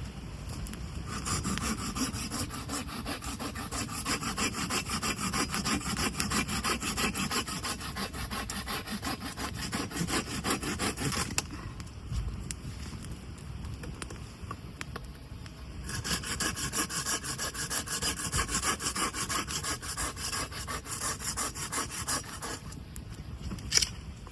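Samurai hand saw cutting through wood in two long runs of quick, even strokes, with a pause of about four seconds between them. A single sharp knock comes near the end.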